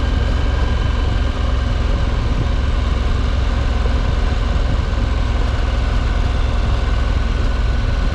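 Moto Guzzi V85TT's air-cooled transverse V-twin engine running at a steady cruising speed under heavy, steady low rumble of wind and road noise.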